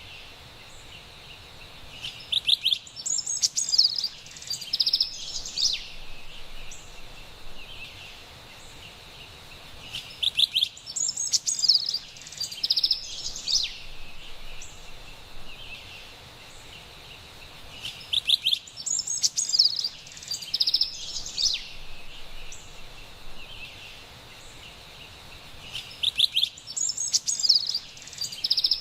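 Carolina wren singing: four bursts of quick, repeated high notes, about one every eight seconds, over a faint steady forest hiss.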